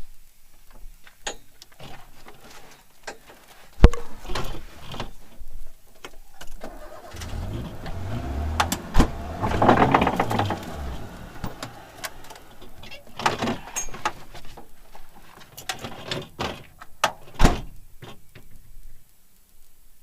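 A car engine swells up and fades away in the middle, among scattered sharp knocks and clunks, the loudest about four seconds in and again near the end.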